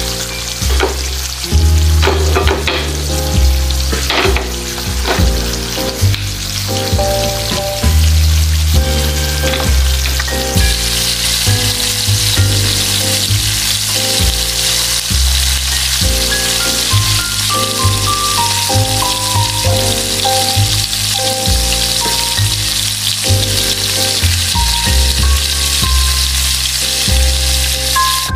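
Salmon sisig sizzling as it fries in a nonstick pan while a spatula stirs it, under background music with a steady bass line. The sizzle gets louder about ten seconds in.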